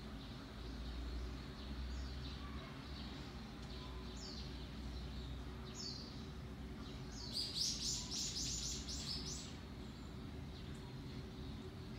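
A songbird calling: a couple of short, high, falling chirps, then a quick run of sharp high notes about seven seconds in, over a steady low hum of background noise.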